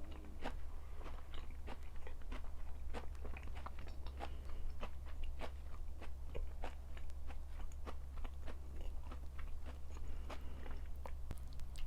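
A person chewing and biting crunchy food, an irregular run of sharp crunches and mouth clicks, over a low steady hum.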